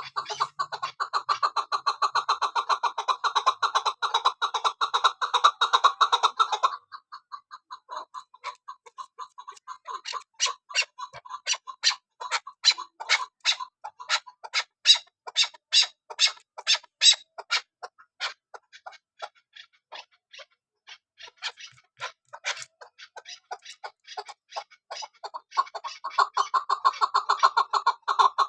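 Chukar partridge calling: a fast, dense run of clucking chatter, then after a short pause a slower series of separate sharp clucks at a few per second, building back into the fast chatter near the end.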